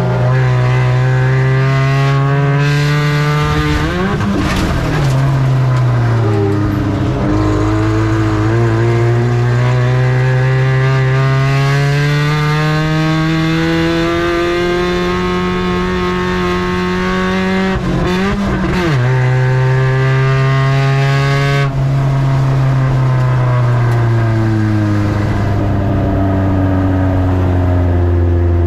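Spec Ranger race truck (Ford Ranger pickup) engine under race load. Its pitch climbs steadily as it accelerates, then falls away, with short choppy dips about four seconds in and again about eighteen seconds in as the throttle is lifted.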